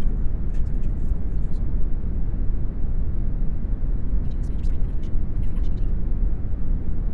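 Steady brown noise: an even, deep rushing hiss that is heaviest in the low end. Faint, short high-pitched flickers sit on top of it in the first second and a half and again about four to six seconds in.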